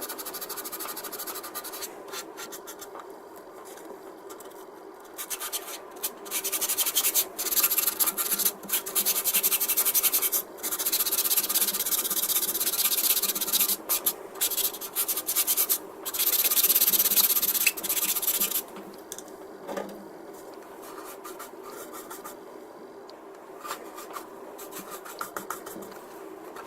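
Sponge sanding stick rubbing back and forth over the plastic of a scale-model aircraft kit, smoothing the step at a seam between joined parts. The strokes come in short runs, starting about five seconds in and stopping about eighteen seconds in, over a faint steady hum.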